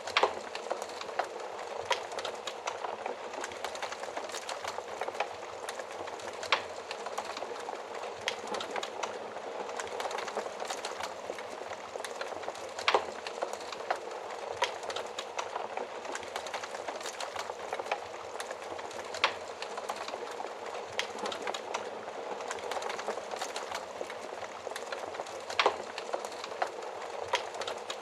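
Wood fire crackling in an oven fireplace: a steady hiss of burning with small sharp pops scattered throughout and a few louder snaps several seconds apart.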